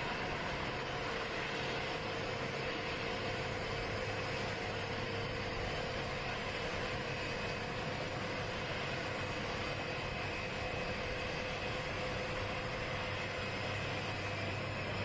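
Steady drone of idling jet aircraft engines, with a constant low hum and a steady mid-pitched tone.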